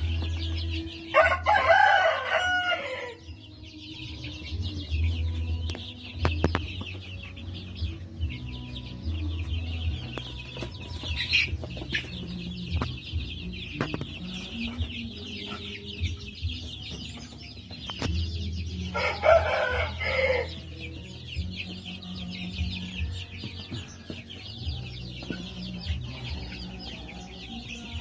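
Native chickens in a flock: a rooster crows twice, once about a second in and again about two-thirds of the way through, over scattered clucking and a steady high-pitched chirring.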